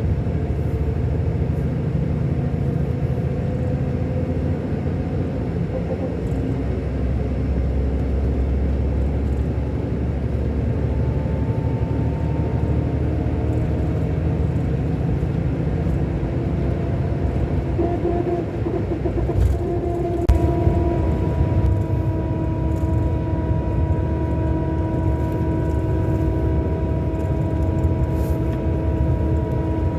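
Scania K400 coach's engine running under way, a steady low rumble. Its tones shift in pitch around the middle and then hold steady from about two-thirds in.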